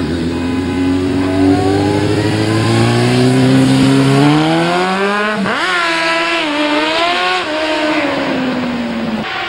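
Racing motorcycle engine at full throttle on a circuit, its pitch climbing steadily for about five seconds, then a brief drop and jump at a gear change, after which the note wavers and slowly falls away.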